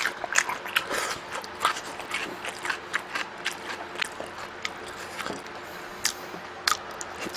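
Close-miked eating: irregular chewing and mouth clicks and smacks, several a second, with a few sharper knocks.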